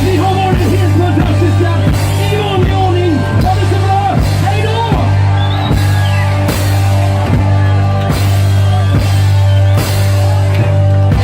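Live band music played loud. A drum kit keeps a steady beat under a held bass note and a melodic lead line.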